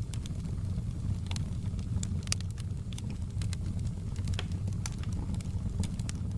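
Outdoor campfire burning with a steady low rumble of flame and frequent sharp crackles and pops from the burning wood.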